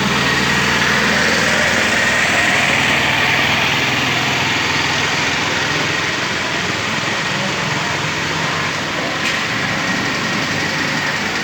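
Heavy rain falling with water flowing, a steady hiss, over a low engine hum.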